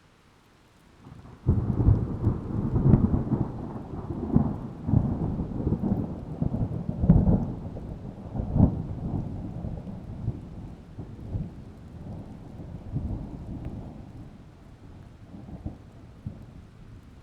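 A thunderclap breaks out about a second and a half in and rolls on in deep, surging rumbles that slowly die away, with rain falling; another rumble begins near the end.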